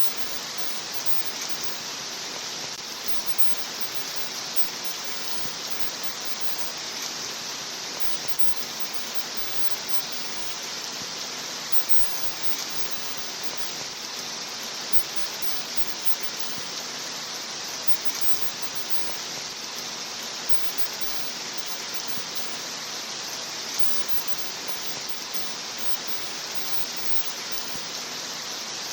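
Steady rain falling, a constant bright hiss that does not change.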